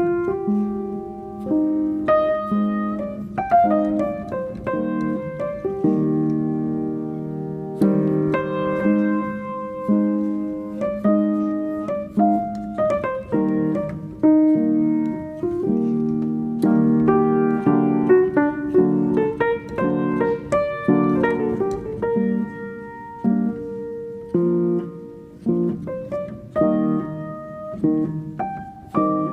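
Calm solo piano music: soft chords and melody notes, each struck and left to ring and fade.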